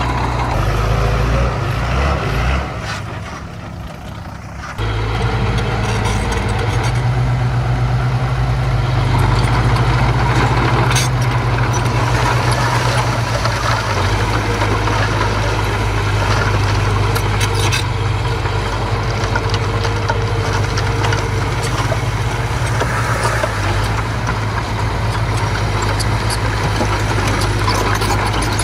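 Heavy-equipment diesel engine running steadily. It drops off for about two seconds near the start, then picks back up abruptly, with a few sharp clicks or clanks over it.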